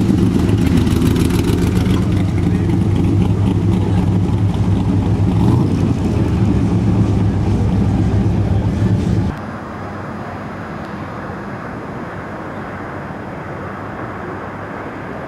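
A car engine running with a deep, loud rumble. About two-thirds of the way through it cuts off abruptly, leaving quieter steady background noise.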